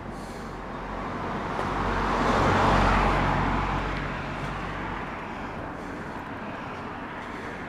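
A motor vehicle passing close by: its tyre and engine noise swells to a peak about three seconds in, then fades away.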